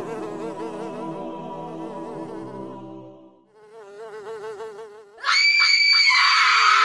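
A housefly buzzing, its pitch wavering up and down, first under a fading choir-like chant. About five seconds in, a loud hissing noise with a shrill edge cuts in suddenly and holds, the loudest sound, with the buzz still under it.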